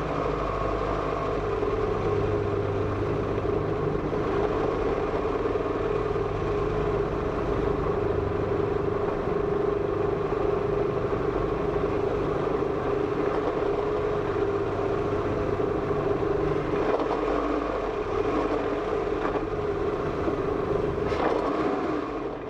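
A car running at low speed, its engine and road noise heard from inside the cabin, over a steady droning hum, with a few light knocks near the end.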